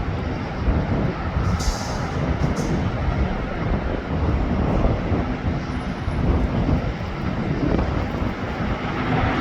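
Boeing 737 jet engines during landing, a steady rushing roar heard from the ground.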